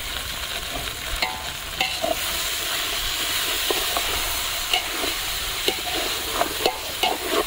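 Oil sizzling in a large pot as chicken pieces fry in ginger-garlic paste while being stirred. A steady hiss runs throughout, with several clinks and scrapes from the stirring utensil against the pot.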